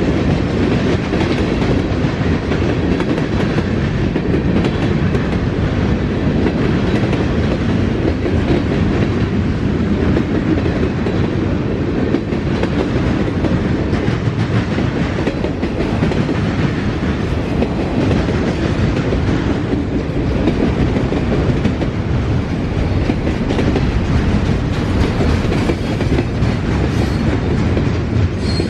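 Norfolk Southern freight train's cars rolling past steadily, wheels clattering over the rail joints.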